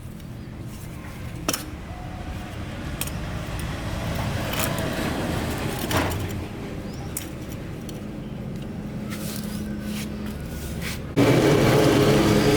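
Low engine-like rumble that slowly builds, with a few sharp clicks and knocks. About eleven seconds in, a much louder machine cuts in abruptly and runs steadily.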